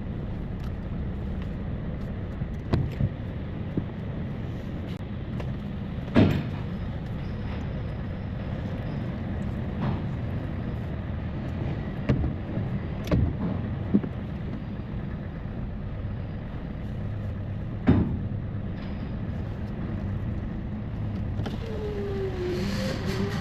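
Truck engine running steadily, heard as a low rumble, with several sharp knocks scattered through it. Near the end comes a brief tone that dips and rises in pitch.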